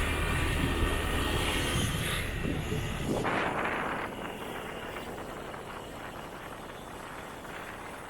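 Motorbike engine and rushing road and wind noise while riding, with a brief louder rush about three seconds in; the sound then steadily fades as the bike slows.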